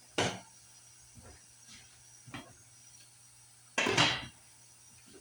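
Kitchen handling noises: a few separate knocks and clatters of items being picked up and set down, the loudest about four seconds in.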